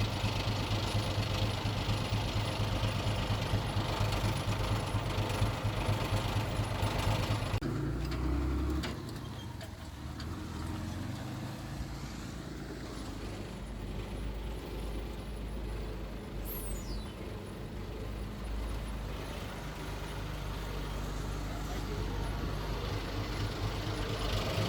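Heavy diesel engine of earthmoving machinery running with a rapid low throb. About eight seconds in it drops suddenly to a quieter, lower rumble, then builds back up near the end.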